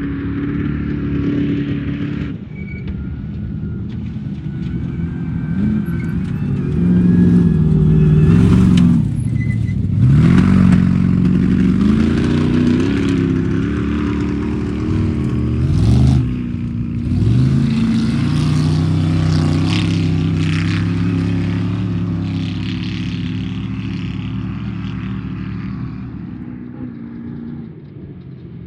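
Off-road race vehicle's engine running hard, its pitch dropping and climbing again several times as the throttle lifts and comes back on. It then holds steady and fades away near the end.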